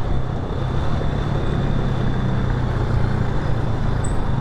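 Motorcycle engine running at a steady pitch, under a steady rush of road and wind noise.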